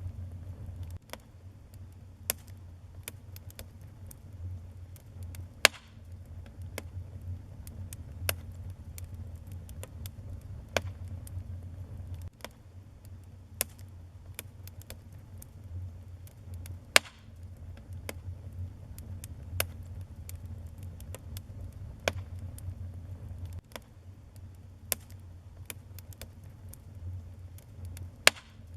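Wood fire burning in a fireplace: irregular crackles and pops over a low, steady rumble of flames, with a few louder snaps.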